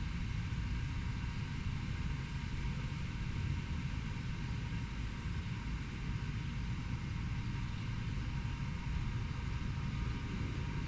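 Steady low rumble of distant urban traffic, with a faint steady hum above it and no distinct events.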